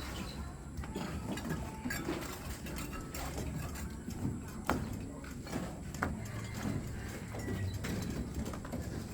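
Construction-site noise during a concrete pour: a low steady rumble with scattered sharp knocks and clicks of tools, two of them standing out about halfway through.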